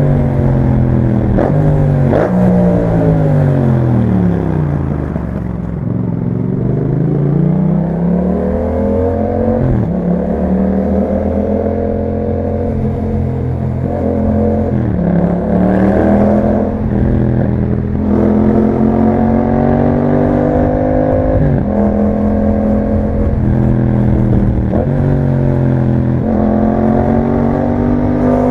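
2021 Yamaha MT-07's 689 cc parallel-twin engine through an Akrapovic exhaust, heard while riding. The engine note falls as the bike slows over the first few seconds, then climbs as it accelerates. After that come several gear changes, each a sudden dip in pitch followed by a climb.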